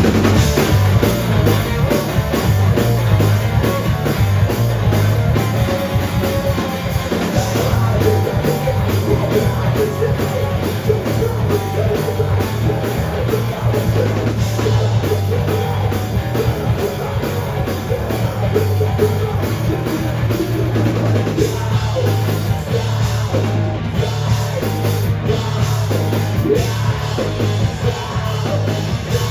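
Live rock band playing a song at full volume, drum kit driving it throughout.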